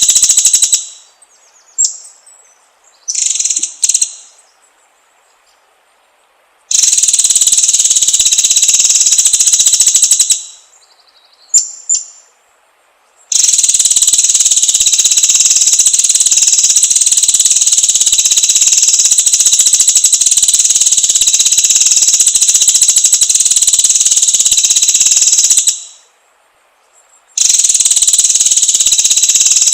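Long stretches of a loud, steady, high buzzing insect drone, each starting and stopping abruptly, with short bird chirps in the gaps between them.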